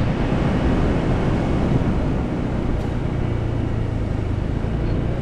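Motorcycle engine running steadily at cruising speed, heard from the rider's position over a wash of road and wind noise.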